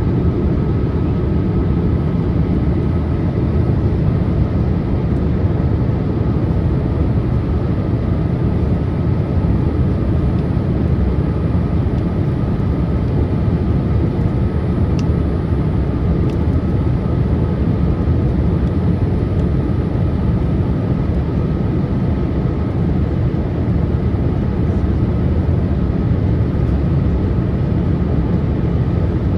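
Steady cabin noise inside a Boeing 787-8 in descent: the rush of airflow and drone of its Rolls-Royce Trent 1000 engines, with a faint steady whine over it.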